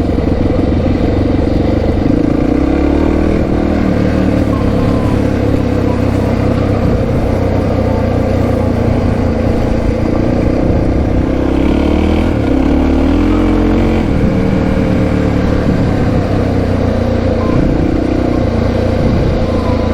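Honda XR650R's single-cylinder four-stroke engine, fitted with a power pipe and HM muffler, running steadily on the move, its pitch rising and falling as the throttle changes.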